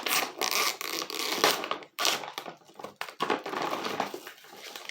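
Cat food bag being torn open by hand, its packaging crinkling and crackling in several rough stretches with short breaks about two and three seconds in.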